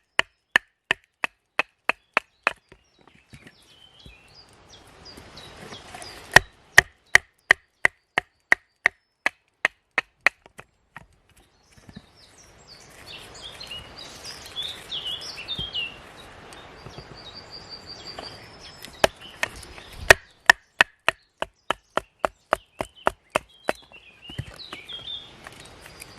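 An axe chopping wood in quick, evenly spaced strokes, about three a second, in three runs with pauses between them. Small birds chirp in the pauses.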